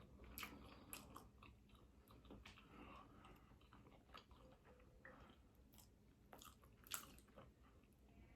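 Faint close-up chewing of a hot boiled egg in seafood-boil sauce, with scattered short wet mouth clicks.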